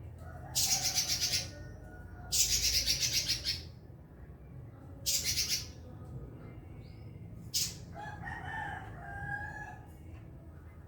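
Pekin robin (red-billed leiothrix) singing in loud, buzzy bursts of very rapid high trills, each about a second long, four times. A lower, drawn-out call follows around eight seconds in, over a faint steady hum.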